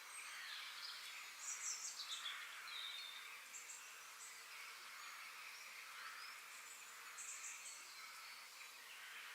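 Faint outdoor nature ambience: small birds giving short, high chirps in quick clusters every couple of seconds over a steady background hiss.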